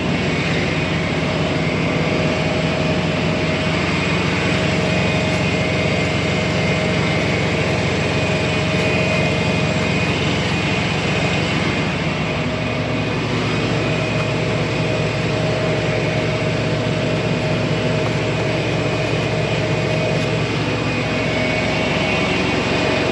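Semi-truck's diesel engine running steadily, with a low drone; the engine note drops lower about halfway through.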